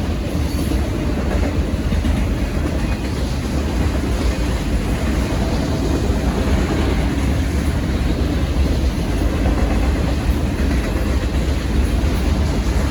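Autorack freight train rolling past at a grade crossing: a steady rumble of wheels on rail.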